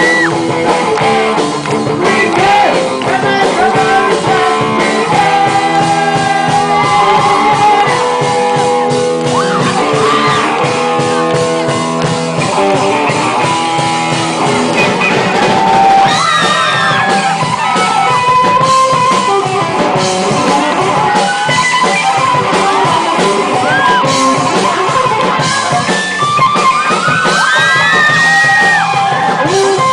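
Rock band music with a voice singing over guitar, played loud.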